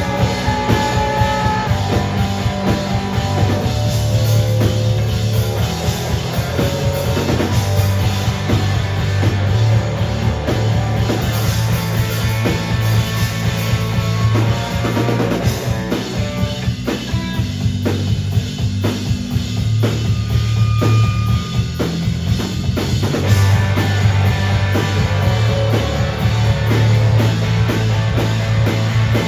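Live rock band playing an instrumental stretch with no singing: drum kit, bass and electric guitar. The guitar thins out for several seconds past the middle, leaving mostly drums and bass, then comes back in.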